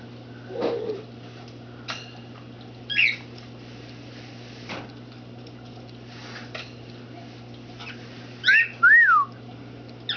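Cockatiel giving short, scattered chirps, then a louder chirp and a whistled note that rises and falls near the end, over a steady low hum.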